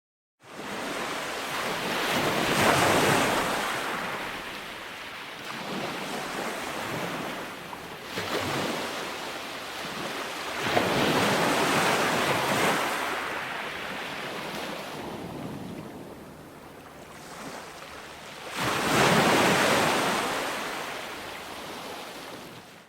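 Calm ocean waves breaking and washing onto a sandy beach, with wind. The surf swells and falls back in slow surges every several seconds; the loudest comes near the end.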